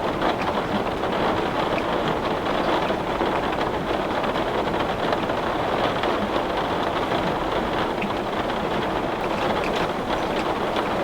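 Heavy rain pattering steadily on window glass, a dense even hiss of many small drop impacts.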